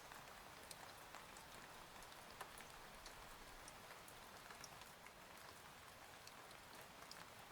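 Faint, steady rain with scattered single drops ticking against a surface.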